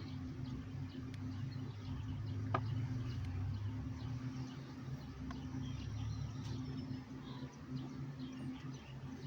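Honeybees buzzing in numbers around an opened hive, a steady hum, with one sharp click about two and a half seconds in.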